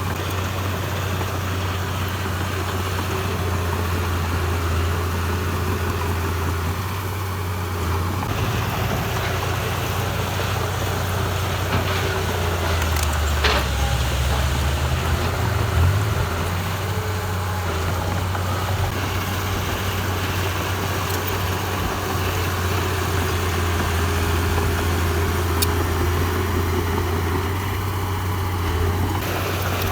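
Heavy diesel engine of earthmoving machinery running steadily with a deep, even hum. A couple of brief knocks come about halfway through.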